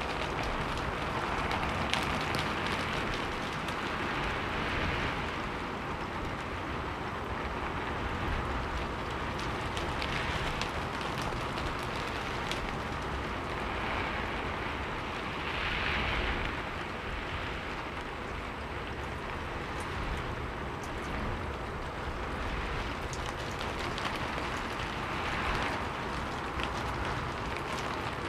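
Steady rain, a recorded rain backing track, with scattered individual drop taps on top.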